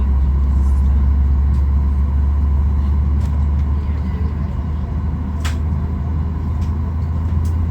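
Steady low rumble inside the cabin of a Boeing 737 MAX 8 on the ground, with a faint steady tone above it and one sharp click about five and a half seconds in.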